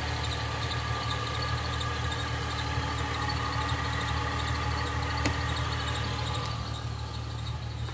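A 2005 Ford Mustang's 4.0-litre V6 idling steadily, heard at the open engine bay, with a faint steady high tone over the engine hum. There is a single sharp click about five seconds in.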